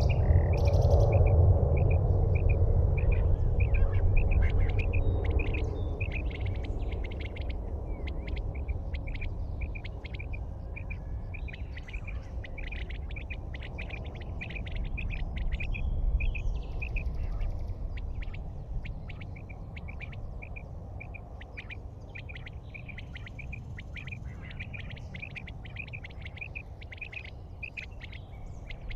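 A bird chirping repeatedly, about two short calls a second, over a low rumble that fades away over the first several seconds.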